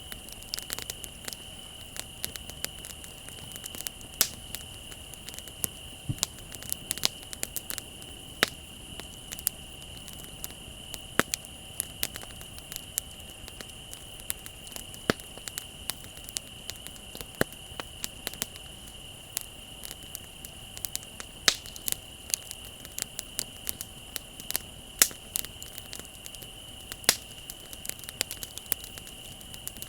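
Wood bonfire crackling, with frequent irregular sharp pops and snaps, over a steady high chirring of crickets.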